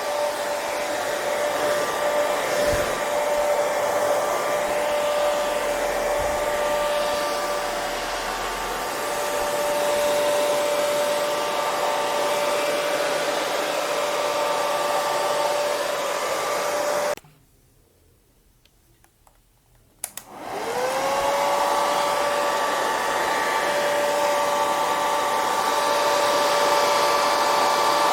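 Hair dryer running with a steady blowing hiss and a motor whine. About seventeen seconds in it cuts out abruptly for about three seconds. Then, after a click, it starts again, its whine rising in pitch as the motor spins up before it settles.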